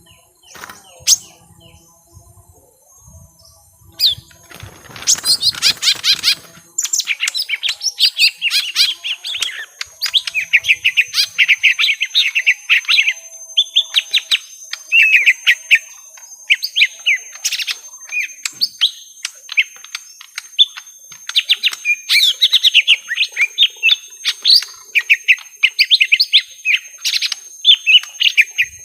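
Young lesser green leafbirds (cucak ijo mini) fighting, giving fast chattering chirps almost without pause from about seven seconds in. A brief rustling burst comes around five seconds in, after a few quiet seconds.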